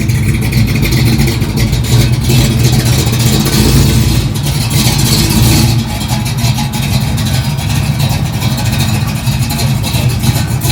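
Car engine running with a deep, steady note, louder for a few seconds in the first half, then settling back; the engine sounds so good.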